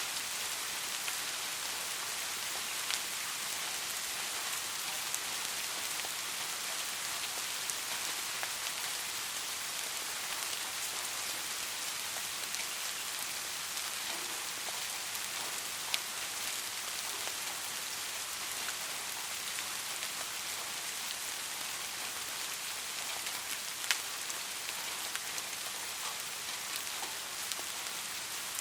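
Light rain falling steadily as an even hiss, with scattered sharp drips standing out, a few of them louder.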